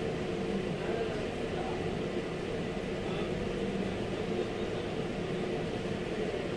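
Steady mechanical hum with a low, even drone.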